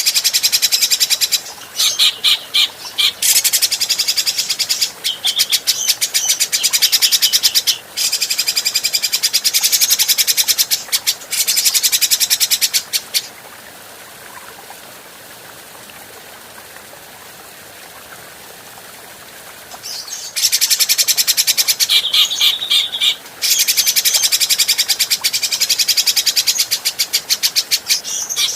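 Grey-cheeked bulbul (cucak jenggot) singing in long, fast, chattering trills of rapid high notes, with a pause of about seven seconds in the middle.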